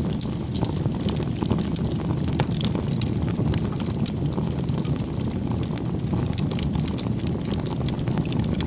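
Wood fire burning with a steady low roar and frequent irregular crackles and pops.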